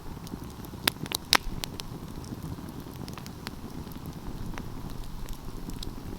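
Wood fire burning and crackling: scattered sharp pops and snaps over a low steady rumble of flame, with a quick cluster of louder pops about a second in.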